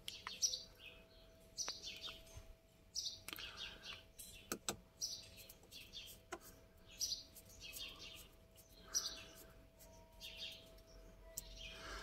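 Bird chirping repeatedly in short high bursts, with a few sharp metallic clicks from a screwdriver working on the ignition lock housing, over a faint steady hum.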